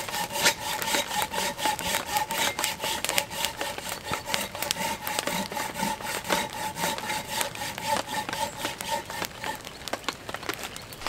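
Hand saw cutting through wood in quick, even back-and-forth strokes, about four a second, the blade ringing steadily until a little before the end.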